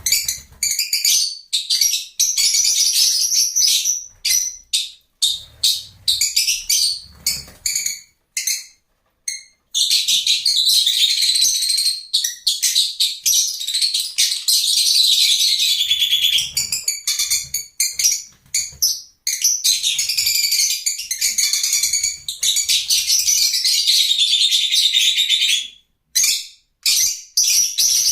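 Lovebirds chattering: a dense run of rapid, high-pitched chirps and squeaks from several birds, breaking off briefly a few times.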